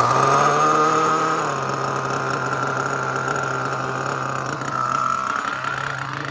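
Small nitro engine of a Team Associated MGT RC monster truck (a Force R36 5.9) running steadily, its pitch sagging briefly and picking back up about five seconds in.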